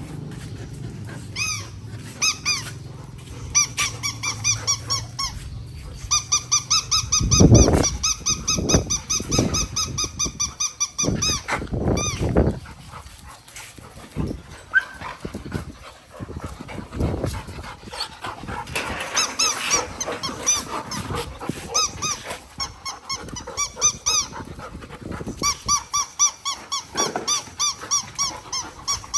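A dog chewing a squeaky toy, which squeaks in quick runs of even, high-pitched squeaks about five or six a second. There are a few louder low thuds and grunts in the middle.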